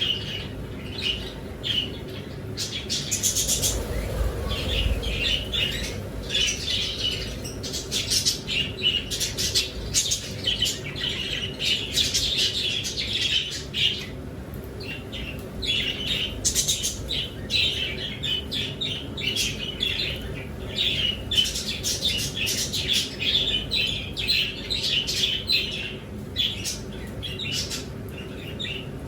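Pet birds chirping, many short high chirps in quick succession, with a brief low rumble about four seconds in.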